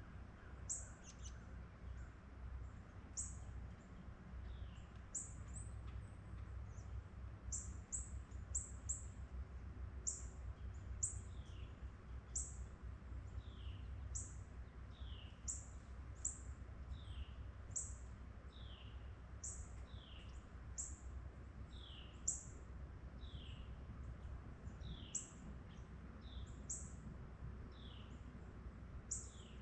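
Small birds calling: very short, very high chips and a thin falling note repeated about once a second, over a faint steady low rumble.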